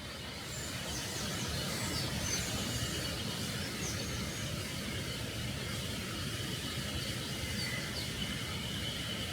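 Outdoor ambience: a steady low rumble with scattered short, high bird chirps, and a faint high steady hum that grows stronger toward the end.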